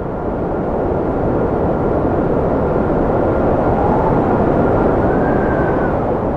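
Strong wind blowing, a steady low rushing with thin whistles that rise and fall in pitch, most clearly in the second half.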